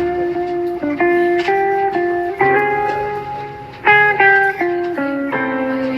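Samsung Galaxy S24 ringtone playing: a melody of short plucked, guitar-like notes over a held bass note.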